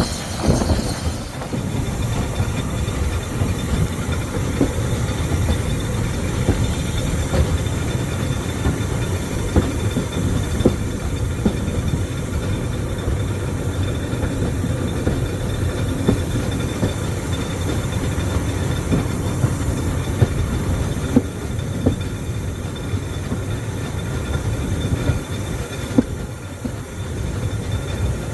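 Heritage railway carriage riding along the line, heard from on board: a steady rumble of wheels on track, with scattered knocks and clicks over rail joints.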